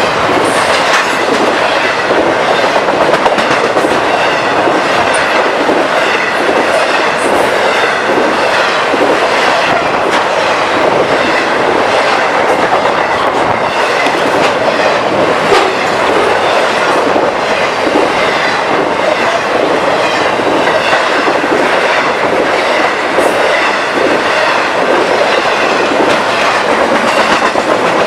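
Train passing close by, its steel wheels clattering steadily over the rail joints.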